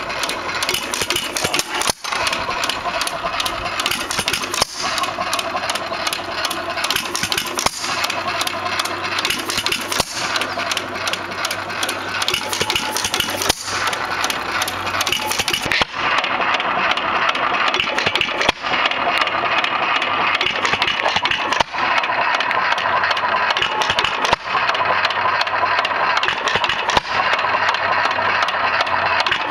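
1921 Hercules 1.5 hp hit-and-miss engine running, with a sharp beat and brief dip in the sound every two to three seconds as it fires and then coasts between firings.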